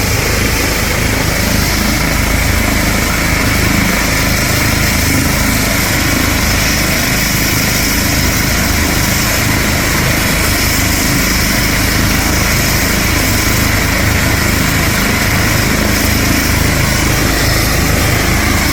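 Helicopter running close by with its rotor turning, a steady engine sound with a low rhythmic beat of the blades, under a rush of rotor downwash on the microphone.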